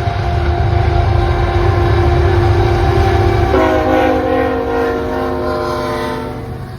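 CN freight locomotive's diesel engine rumbling as the train runs by. About halfway through, its horn sounds a chord of several notes for nearly three seconds, then cuts off.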